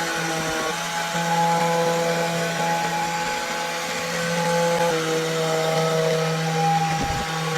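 A power tool running steadily, heard under background music with long held notes.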